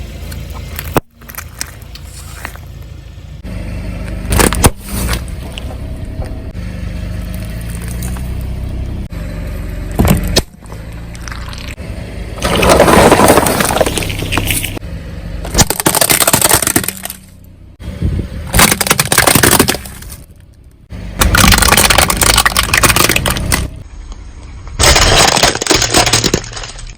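A car rolling over objects and crushing them: cracking, crunching and breaking over a low engine rumble. The sound comes as a series of short clips with abrupt cuts between them.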